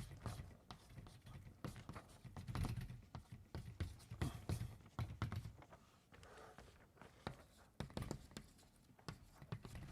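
Faint taps and scrapes of writing on a board, an uneven run of short clicks with brief pauses.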